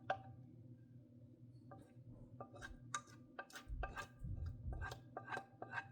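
A metal spoon clicking and scraping against a pan while the cooked filling is scooped out: a rapid run of light taps, some with a short ring, starting about two seconds in, with a dull bump partway through.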